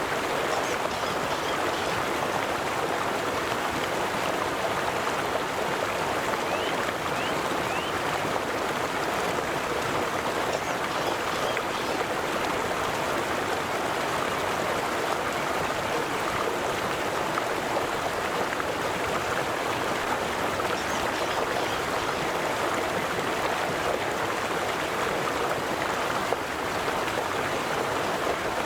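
River water flowing and babbling over stones, a steady, even rush with fine splashing texture throughout.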